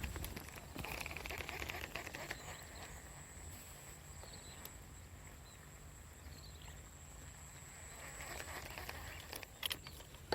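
Countryside ambience: a steady high insect whine with a few short, faint bird chirps, and bouts of rustling about a second in and again near the end.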